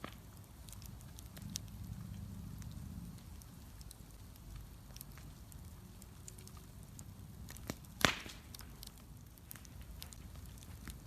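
Wood bonfire crackling, with scattered small pops and one loud pop about eight seconds in, over a low rumble.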